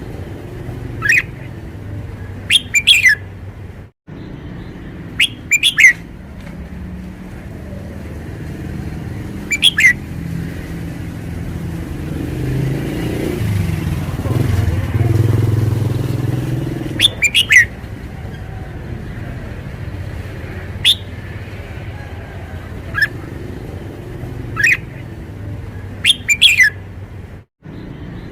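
Caged red-whiskered bulbul singing short, quick whistled phrases every few seconds, over a low background rumble. A passing vehicle's rumble swells and fades in the middle.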